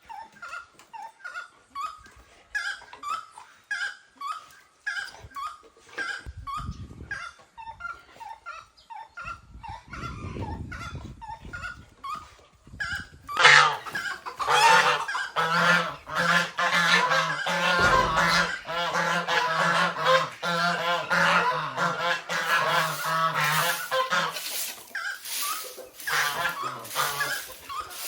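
A flock of farmyard birds calling: at first a single call repeats about twice a second, then about halfway through many birds break into a loud, dense clamour of overlapping honking calls for about ten seconds before it thins back to scattered calls.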